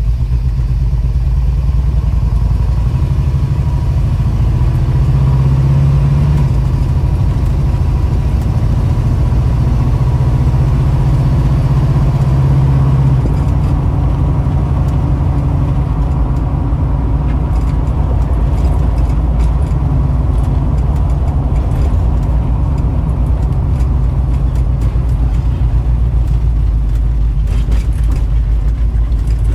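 The 289 cubic-inch V8 of a 1965 Ford Falcon Sprint, with a Holley four-barrel carburetor, running under way and heard from inside the cabin as a steady low rumble. The engine pulls harder from a few seconds in and eases off about thirteen seconds in. Light clicks and rattles come through in the second half.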